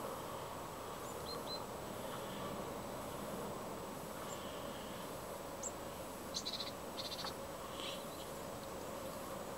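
Small birds calling in short high chirps and trills, a handful of times, loudest about six to seven seconds in, over a steady distant background hum.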